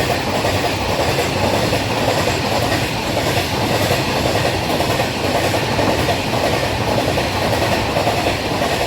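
Train hauled by a WAG-12 electric freight locomotive running steadily on the rails, with a constant loud noise of wheels on track.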